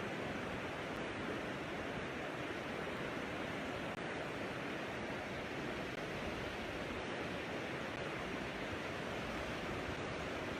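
Pacific Ocean surf breaking on a sandy beach: a steady, even wash of wave noise with no distinct breaks.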